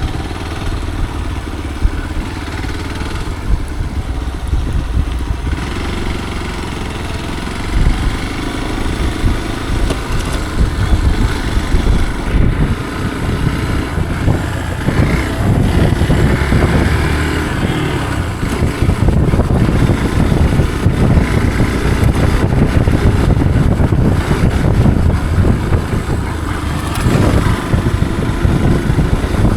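Motorcycle engine running under way on an off-road trail, with a rough, uneven rumble that grows louder about eight seconds in.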